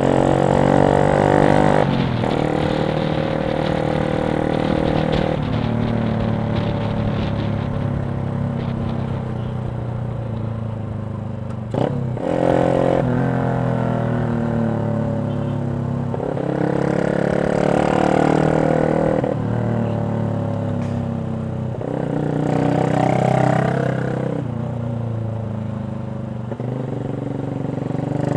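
Yamaha Jupiter MX 135's single-cylinder four-stroke engine through a CLD X Monster aftermarket racing exhaust, revving up and easing off again and again, the pitch rising and then dropping about five times.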